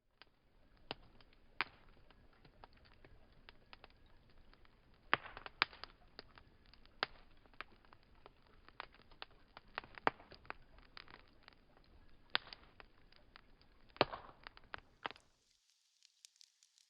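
Wood fire crackling, with irregular sharp pops and snaps over a soft hiss. About fifteen seconds in it changes to a thinner, higher hiss with small ticks.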